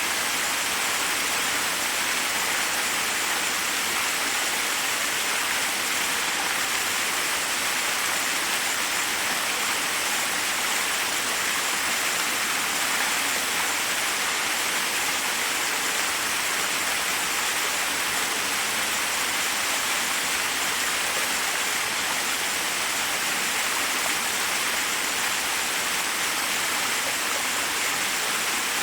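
Forest waterfall: water rushing and splashing over rocks in a steady, unchanging roar.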